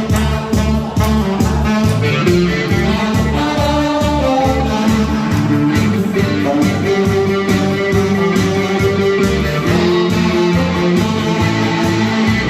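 Tenor saxophone playing a song's melody in long held notes over an accompaniment with guitar and a steady bass beat.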